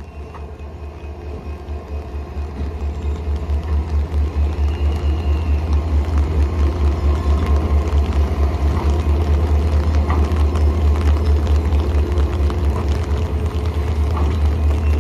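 GM diesel locomotive's engine running during shunting: a deep pulsing throb that grows louder over the first few seconds and then holds steady, with a few faint clicks on top.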